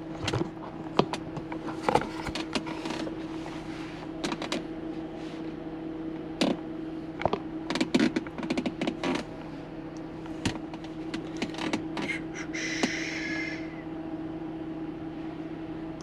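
Scattered clicks and taps from handling a handheld automotive scan tool and pressing its buttons, over a steady hum. A short higher-pitched sound comes in about twelve seconds in.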